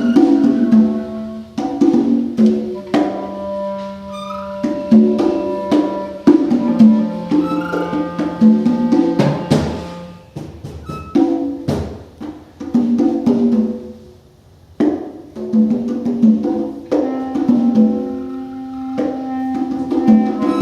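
Free-improvised live music: congas struck in uneven clusters over held pitched tones from a melodic instrument, briefly thinning out about two-thirds of the way in.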